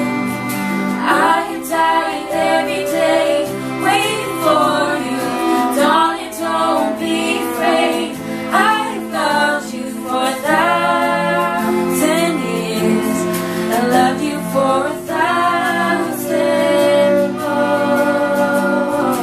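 Voices singing a slow song over instrumental accompaniment, the sung notes held with vibrato.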